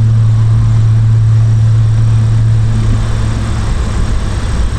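A 1971 Triumph Vitesse Mk2's two-litre straight-six engine running steadily on the road, as a low, even drone that holds one pitch, with road rumble underneath.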